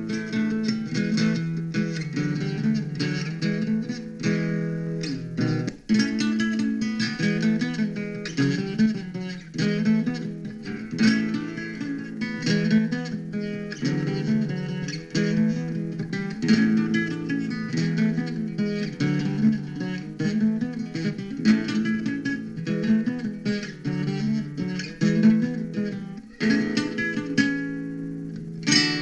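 Instrumental acoustic guitar music: quick plucked notes in a repeating pattern, with strummed chords. There is a brief break about six seconds in.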